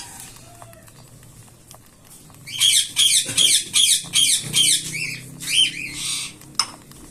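Young cockatiels giving a rapid run of high, repeated chirping calls, typical begging calls at feeding time. The calls start about two and a half seconds in and last some four seconds, and a few sharp clicks follow near the end.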